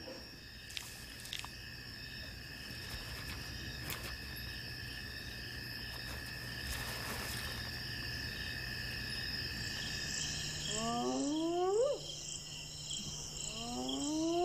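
Night insects, crickets among them, trilling steadily. Near the end come two rising whoops of spotted hyenas, each sliding up in pitch.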